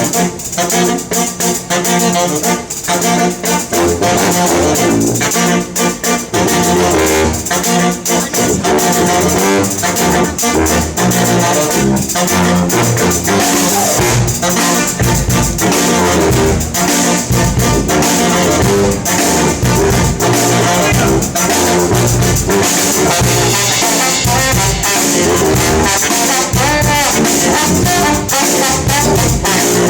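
Live brass band playing jazzy, upbeat music, with horns over a steady drum beat. A strong pulsing bass line comes in about halfway through.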